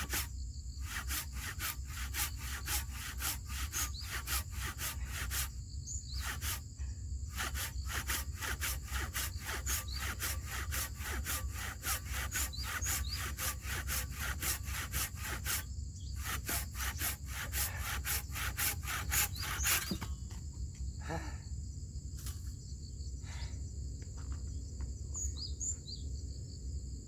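Hand saw cutting through wood for firewood in a steady back-and-forth stroke rhythm that stops about twenty seconds in. Insects chirr steadily throughout.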